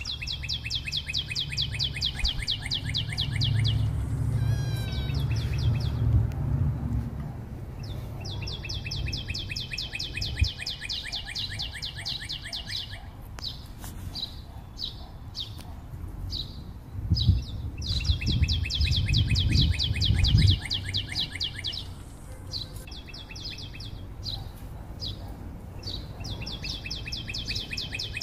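A bird singing: long trills of rapid, evenly repeated high notes, each lasting three to four seconds and returning every five or six seconds, with short chirps in between. Low rumbling comes in twice, early and again about two-thirds through.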